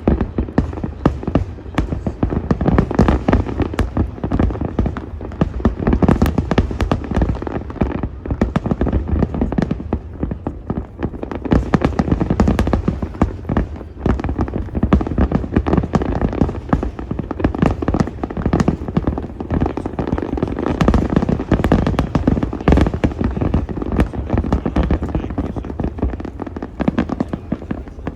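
Aerial fireworks: a dense, continuous barrage of booming shell bursts and crackling, with no let-up.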